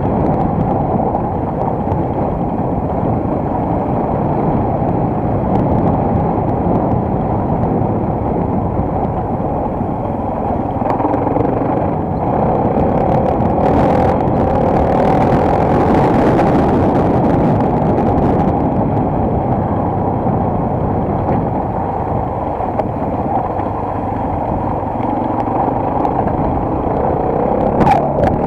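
Enduro motorcycle running under way, a steady engine drone. About halfway through, a hiss rises for a few seconds and then falls away.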